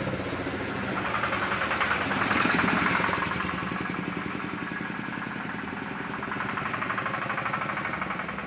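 A vehicle's engine running with a fast, even chugging, louder about two to three seconds in.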